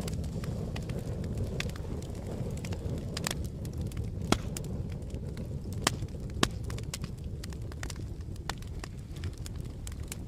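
Campfire burning: a steady low rumble of flames with irregular sharp crackles and pops from the burning wood, a few louder pops in the middle.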